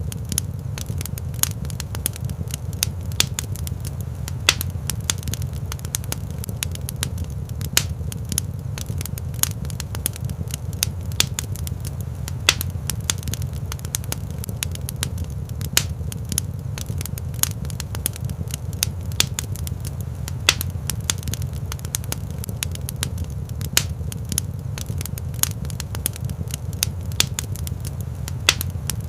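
Wood fire crackling in a rock fireplace: irregular sharp pops and snaps over a steady low rumble of the burning fire.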